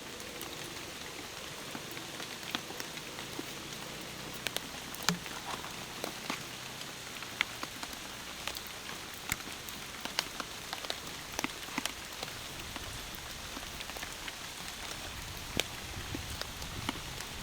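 Steady rain, an even hiss with scattered sharp drop ticks at irregular intervals.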